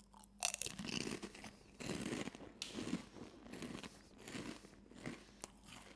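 A person bites into a crunchy, layered corn snack (YBC Aerial teriyaki mayo) and chews it. A loud crunch about half a second in is followed by repeated chewing crunches that get quieter.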